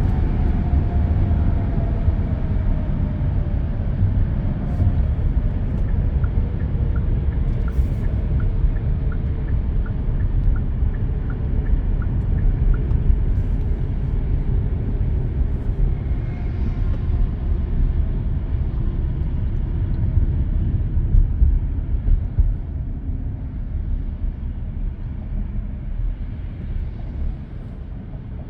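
Car driving on an expressway, heard from inside the cabin: a steady low rumble of road and tyre noise. A faint whine falls in pitch over the first few seconds, and a faint, even ticking of about two a second runs for several seconds near the middle.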